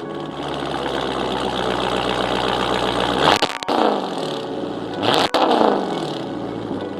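2019 Dodge Charger Daytona's 6.4-litre HEMI V8 idling through a muffler-deleted exhaust after a cold start. It is blipped twice, a little past the middle and again about two seconds later, each rev rising sharply and falling back to idle.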